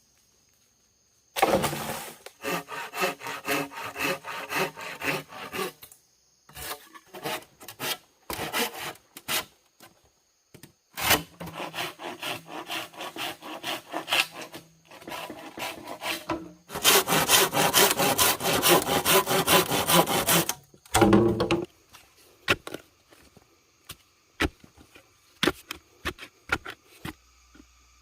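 A hand saw cutting wood in three long runs of even back-and-forth strokes, followed by a loud knock and a few scattered knocks near the end.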